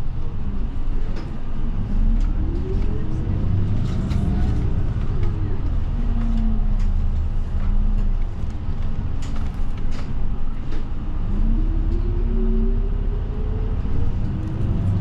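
City bus running with its engine heard from inside the cabin. The engine's pitch rises and falls as the bus speeds up and slows, over a steady road rumble with small rattles and clicks.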